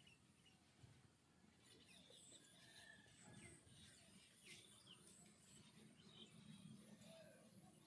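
Near silence: faint outdoor ambience with small birds chirping in the distance.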